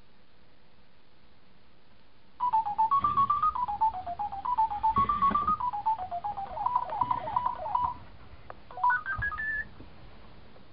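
Sony Aibo ERS-210 robot dog playing a short electronic beeping melody, single tones hopping up and down. It starts a couple of seconds in and is followed by a quick run of rising beeps.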